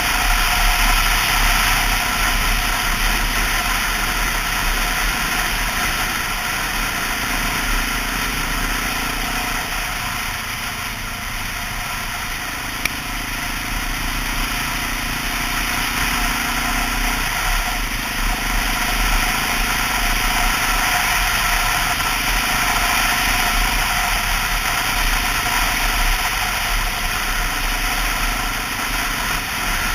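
Honda XR650L's air-cooled single-cylinder engine running under way, under a steady rush of wind noise. The engine note shifts up and down in pitch several times as the speed changes.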